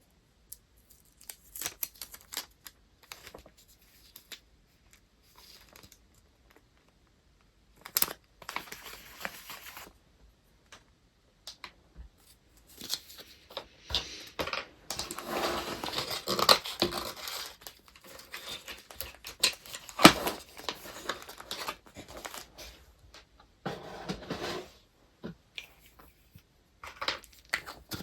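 Paper wrapping and packing materials being handled: crinkling, rustling and tearing with scattered sharp clicks, in short bursts with quiet gaps, busiest through the middle.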